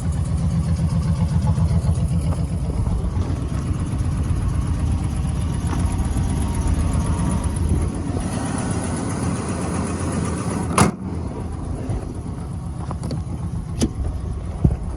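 Chevy 5.7 L 350 V8 idling with a steady low pulsing; the seller says the engine has a bad miss. A single sharp knock about eleven seconds in, then a few lighter clicks near the end.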